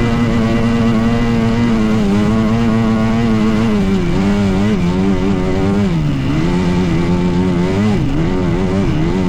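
Dirt bike engine running at steady high revs, then the throttle rolled off and back on several times, the pitch dipping and rising, with the deepest drop about six seconds in.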